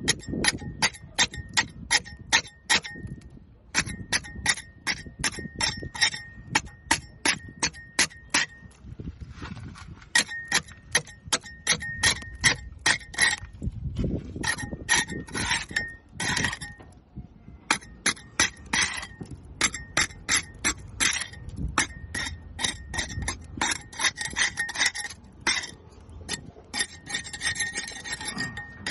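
A hand scraper chipping barnacles off a boat hull: sharp clinks, about three to four a second, in runs broken by short pauses, over a faint ringing tone.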